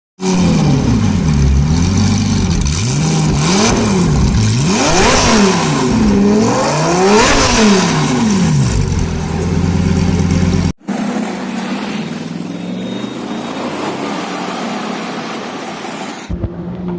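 A high-performance car engine revved repeatedly, its pitch climbing and falling with each rev. About two-thirds of the way through it cuts off abruptly, followed by a quieter, steady engine sound.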